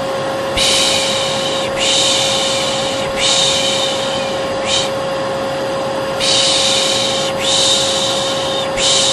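Hair dryer running steadily with a constant hum, overlaid by a voice shushing 'shhh' in repeated strokes about a second long, six in all, one of them short. This is pış pış shushing over white noise, used to soothe a colicky baby.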